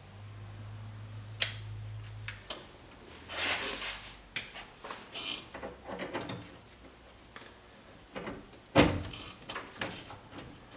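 Scattered clicks, knocks and rattles of small metal parts and tools being handled while working on a pickup's door hardware, with a sharp knock about nine seconds in. A low steady hum runs through the first two seconds.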